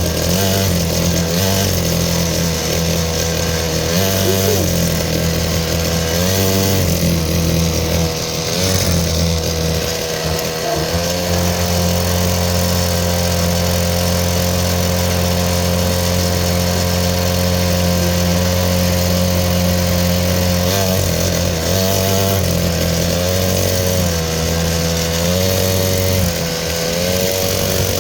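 Dirt bike engine running while being ridden, its pitch stepping up and down with the throttle and holding steady for a stretch in the middle.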